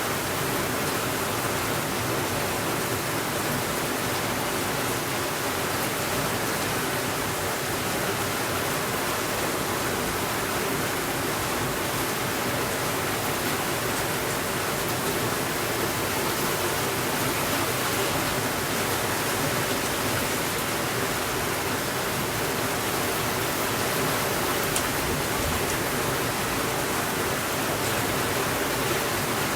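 Steady rainfall, an even dense hiss that neither swells nor fades.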